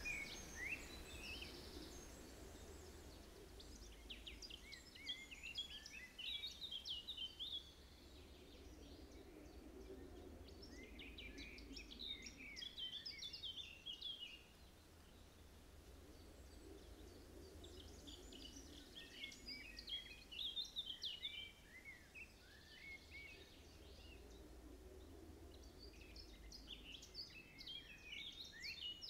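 Faint birds chirping in four short flurries several seconds apart, over a low steady background hum.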